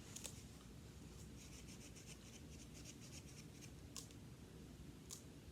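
Fingertips rubbing over the raised, bumpy texture patch of a touchy-feely board book: a faint, quick series of scratchy strokes over the first couple of seconds, then a few soft clicks from handling the book.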